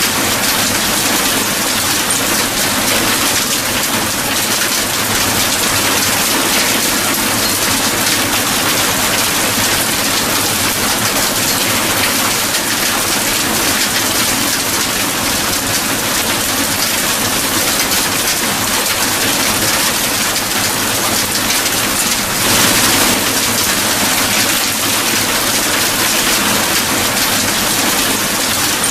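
Steady heavy rain falling, a dense hiss of many drops hitting a surface, with a brief swell in loudness a little after two thirds of the way through.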